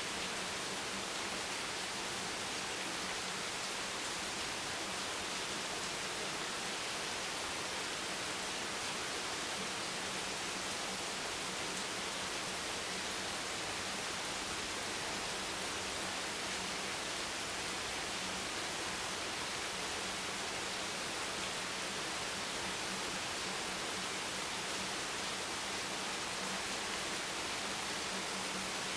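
Steady rain noise: an even, unchanging hiss with no individual drops standing out, over a faint low hum.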